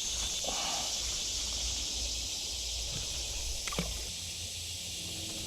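Steady high-pitched outdoor hiss with low wind rumble on the microphone that eases about four seconds in, and a single faint tap.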